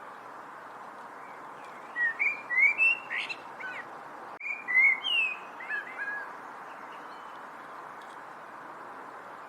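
A songbird singing two short phrases of quick, sliding whistled notes, about two seconds in and again about four and a half seconds in, over a steady background hiss.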